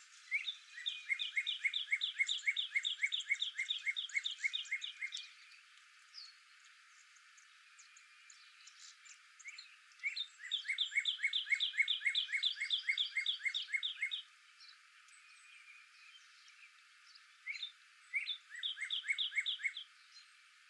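An animal's rapid series of chirping calls, about four or five a second, in three bouts of a few seconds each, the last one shorter.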